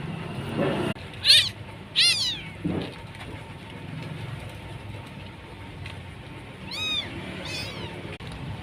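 Kittens meowing: high, arching cries, two about a second apart near the start and two more near the end, with a couple of lower, shorter calls between them.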